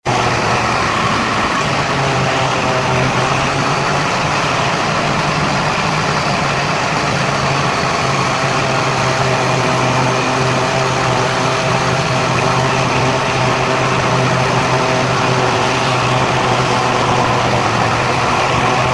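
Steady car engine and road noise, with a low hum that holds constant, sped up to one and a half times normal speed.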